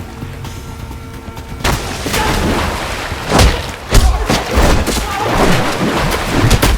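Added fight sound effects: a rapid series of heavy punch and kick impacts begins about a second and a half in, the hardest hits coming near the middle, over background music.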